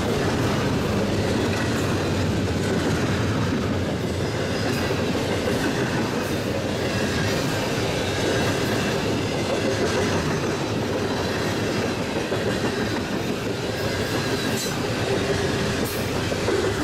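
Freight train cars rolling past on steel rails, a steady rumble of wheels with occasional sharp clicks and faint high wheel tones.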